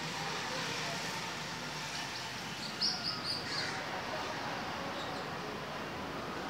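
Steady outdoor background noise with birds calling: a quick run of about four short, high chirps roughly three seconds in.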